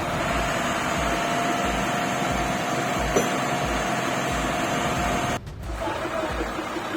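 Heavily loaded container lorry's diesel engine running with a steady whine. There is a sharp click about three seconds in, and the sound briefly drops out about five and a half seconds in.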